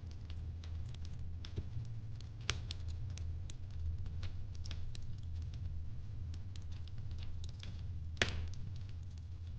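Fireplace crackling: irregular small snaps and pops of burning wood over a steady low rumble, with a sharper pop about two and a half seconds in and the loudest about eight seconds in.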